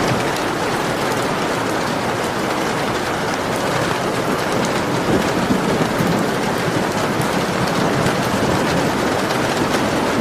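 Steady heavy rain falling on a surface, with individual drops ticking through the hiss and a low rumble swelling briefly around the middle.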